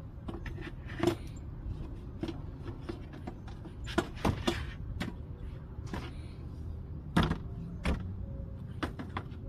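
A series of irregular light knocks and clicks, the sharpest about a second in, around four seconds in and past seven seconds, over a low steady hum.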